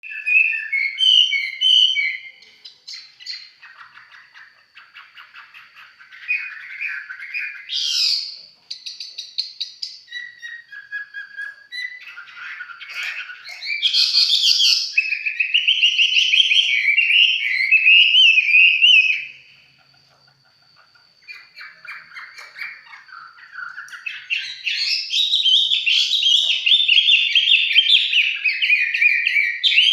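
A songbird singing at length: fast runs of chirps and warbling phrases, with brief pauses about a third of the way in and again about two thirds of the way in.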